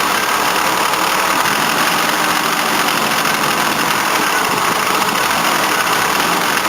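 Mercedes-Benz W108 250S straight-six idling steadily on LPG with its air-conditioning compressor engaged. The compressor sounds a bit knocky and the engine is running poorly, which the owner puts down to a tired compressor and an engine in need of a tune.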